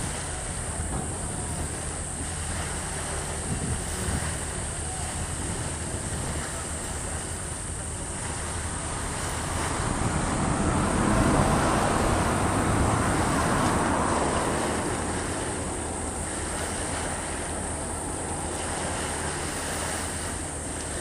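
Wind on the microphone and sea water, over a steady low motor hum from a boat; the rush swells louder about halfway through, then settles.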